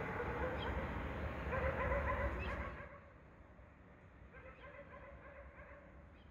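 Dogs barking and howling over a steady low night-time hum. The sound drops much quieter about three seconds in, and fainter calls follow a little later.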